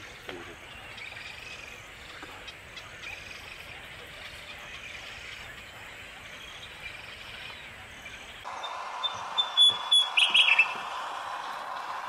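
Wild birds chirping faintly over steady outdoor hiss; the background changes abruptly about eight and a half seconds in, followed by a loud cluster of sharp chirps and clicks.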